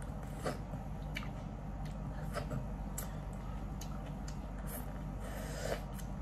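Close-up eating sounds: chewing and smacking on spicy seafood, with short, sharp clicks about every half second to second and a brief hiss near the end, over a steady low hum.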